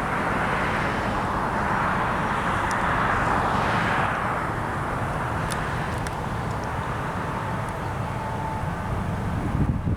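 Jet noise of an arriving Spirit Airlines Airbus A320-232, with IAE V2500 turbofans, passing on landing approach: it swells to a peak about four seconds in and then slowly fades.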